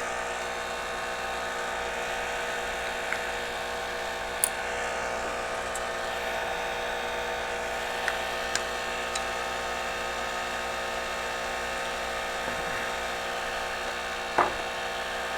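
Steady whir of a small motor-driven fan on a microsoldering bench, with a faint whine, and a few light clicks and one louder tap near the end.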